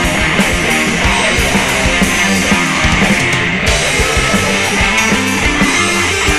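Heavy rock band playing loudly: distorted electric guitars with bass and drums keeping a steady beat.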